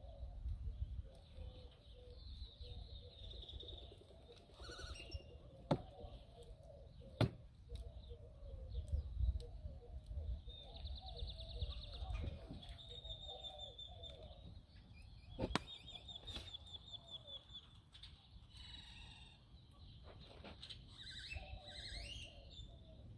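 Birds chirping and trilling, fairly faint, over a low rumble, with a few sharp clicks scattered through.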